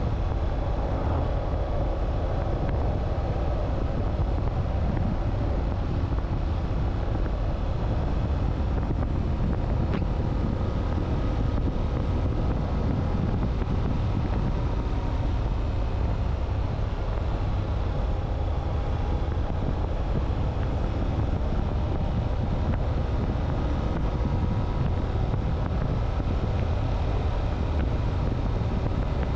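Motorcycle running steadily at road speed, with wind rushing over the microphone and a constant low rumble.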